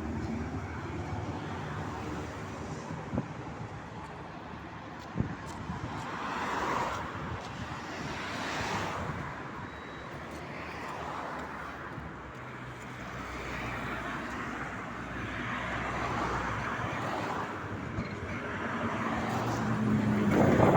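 Tram running along the rails: a steady rumble of wheels and running gear, with two sharp clicks a few seconds in, growing louder near the end.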